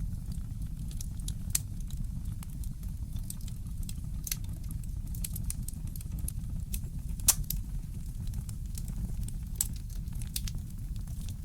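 Fireplace crackling: irregular sharp pops and snaps, the loudest about seven seconds in, over a steady low rumble.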